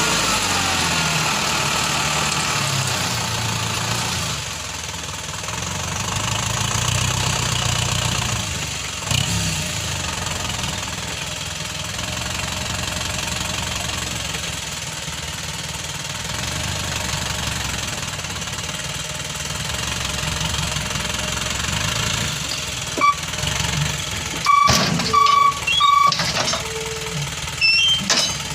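Isuzu Elf dump truck's diesel engine running, its pitch rising and falling as it revs. Several short, loud, high-pitched beeps come near the end.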